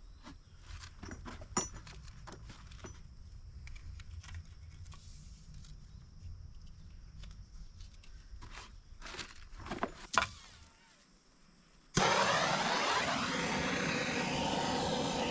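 Scattered clicks and knocks of plastic water-line fittings and hose clamps being handled, over a low rumble. About twelve seconds in, this cuts off abruptly to a loud, steady machine noise.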